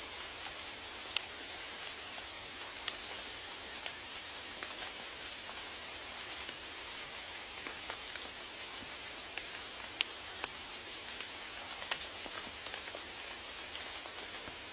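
Steady rain, a constant hiss with many individual raindrops ticking and pattering on a surface.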